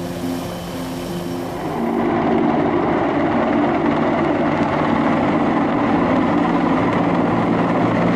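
Mil Mi-26 heavy-lift helicopter running: the rush of its twin turboshafts and eight-bladed main rotor, a steady, dense noise that grows louder about two seconds in.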